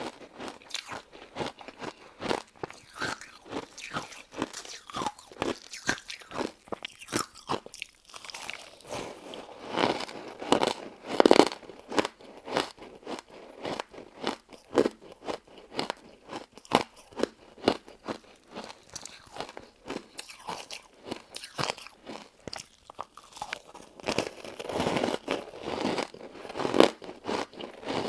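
Close-miked chewing and crunching of a crystal ice and citrus jelly dessert: rapid, irregular crisp crunches, with a louder spell of crunching around eleven seconds in.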